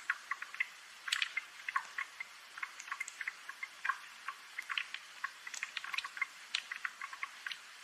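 Rain dripping: a steady scatter of small, sharp drops landing irregularly, several a second, light and high with no low rumble.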